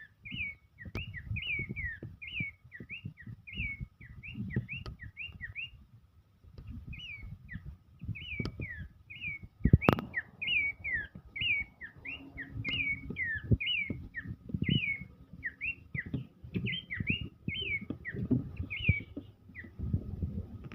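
Abbott's babbler (pelanduk semak) singing steadily: quick, repeated whistled notes, about two a second, with a short break about a quarter of the way in. Low knocks and thumps run underneath, with one sharp click near the middle.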